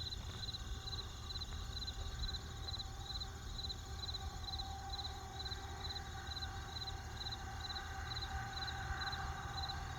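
Crickets chirping in a steady, even rhythm, about two to three chirps a second, over a low steady rumble.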